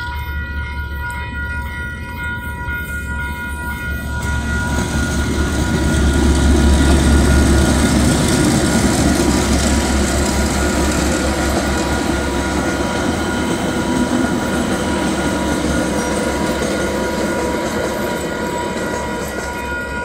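Train hauled by two DA class diesel-electric locomotives passing over a level crossing: the diesels run with a steady low hum, and the wheels and carriages rumble past, building from about four seconds in and loudest a few seconds later. The crossing alarm sounds steady high tones throughout.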